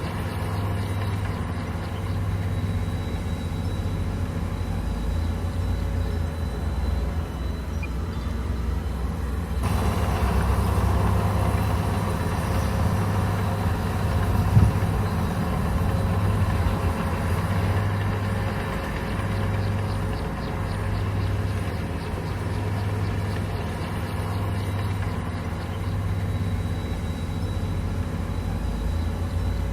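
Komatsu bulldozer's diesel engine running steadily with a low, pulsing drone while the machine works. About ten seconds in the sound suddenly grows louder and fuller, and there is one sharp knock about fifteen seconds in.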